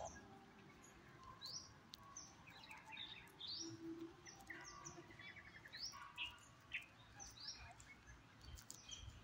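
Faint birds chirping: many short rising chirps scattered throughout, with a brief rapid trill about five seconds in.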